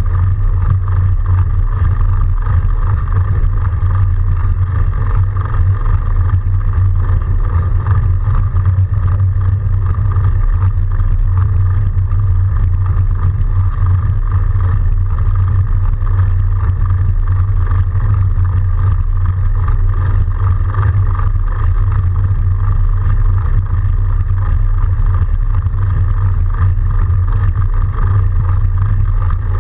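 Steady, loud rumble of a fat bike being ridden through snow, picked up by a camera mounted on the bike or rider, with a steady higher whine over it.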